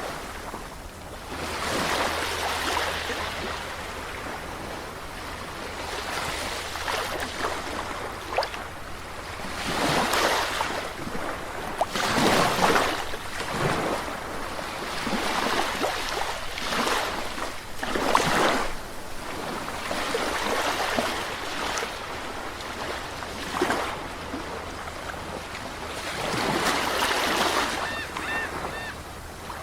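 Sea waves breaking and washing up on a shore: a surge of surf every two to three seconds, each swelling and then fading into a softer wash.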